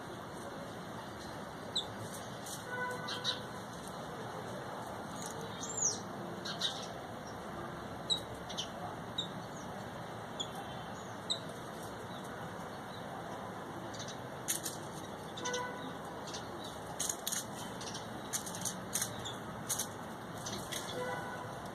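Small birds giving short, high chirps, scattered through and coming thicker near the end, over a steady background hiss.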